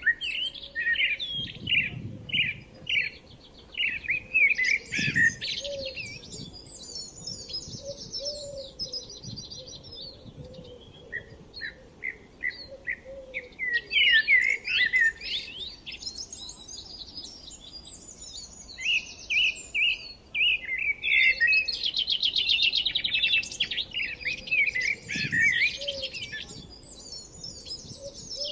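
Forest songbirds chirping and singing, several birds at once, with short repeated chirps and fast rattling trills overlapping throughout.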